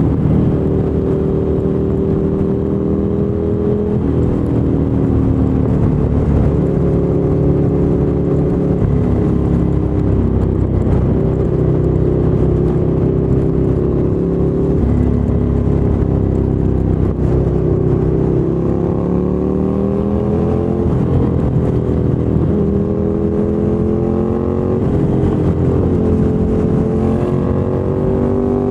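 A 2017 Ducati Monster 797's air-cooled L-twin engine running through a LeoVince LV-10 aftermarket exhaust while riding. Its note rises under throttle and drops at gear changes, several times.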